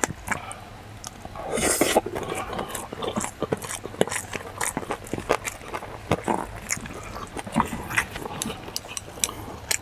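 Close-up eating sounds: wet chewing and lip smacking of a mouthful of mixed rice, with scattered clicks of a wooden spoon against a stainless steel bowl and a louder scraping or slurping burst about two seconds in.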